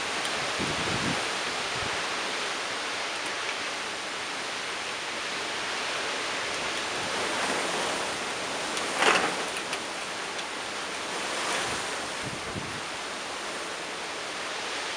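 Severe windstorm: strong wind rushing steadily, with a short louder gust about nine seconds in.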